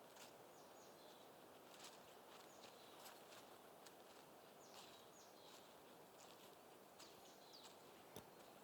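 Faint wild birdsong: scattered short, high chirps every second or so over a soft steady hiss of outdoor ambience.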